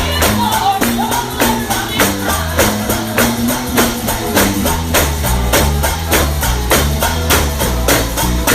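Live gospel band music on a fast, steady beat, with a tambourine struck and shaken on every beat over a walking bass line and other instruments.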